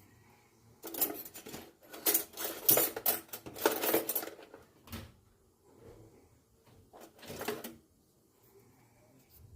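Kitchenware being handled: a run of clattering and scraping for about three seconds, then a shorter burst near the end.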